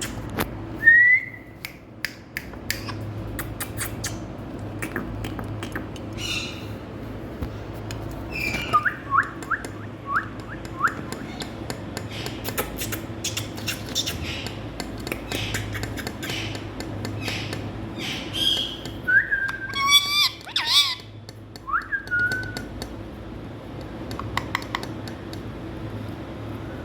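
Indian ringneck parrot giving short whistles and squawks, with a run of quick falling chirps and, later, a louder cluster of whistled calls, amid many sharp clicks and a steady low hum.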